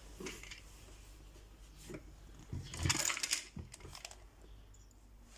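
Scattered light clicks and a short rasping scrape about three seconds in, from a screw being fitted through the plastic roof panel into the birdhouse's wood.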